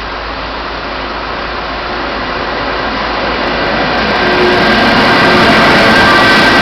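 Frecciabianca passenger train pulling into the station, its running noise growing steadily louder over the first few seconds. A thin, high, steady whine comes in from about four seconds in.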